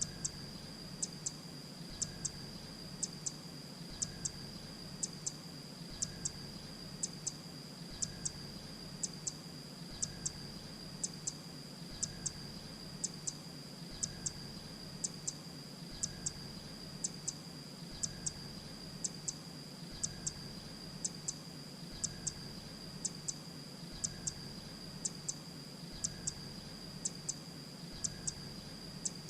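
Grey-breasted prinia calling: short, high notes in tight groups of two or three, repeated evenly about once a second, over a steady high-pitched tone.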